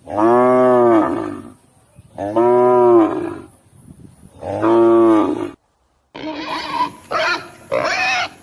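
A cow mooing three times, each moo a long, drawn-out call of about a second. After a short pause a different run of short, choppy calls starts.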